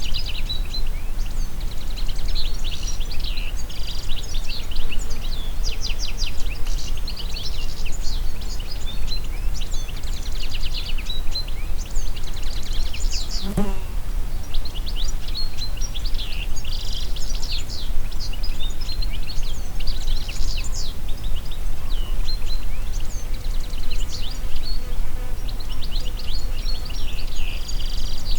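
A chorus of songbirds singing and calling together, with many quick, high, overlapping notes, over a steady low wind rumble in the trees. A single short knock sounds about halfway through.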